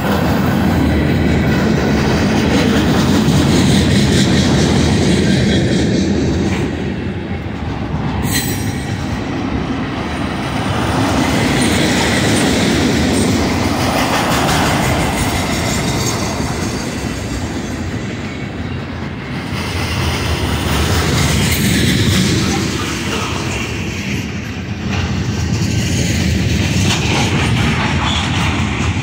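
Freight train cars (boxcars, autoracks and covered hoppers) rolling past close by, their wheels rumbling and rattling on the rails. The sound swells and eases every few seconds as the cars go by.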